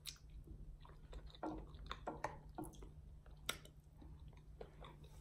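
Close-miked chewing of soft smothered potatoes: faint, irregular wet mouth clicks and smacks.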